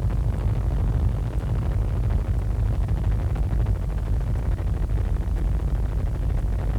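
Helicopter engine and rotor noise heard from on board, a steady low rumble.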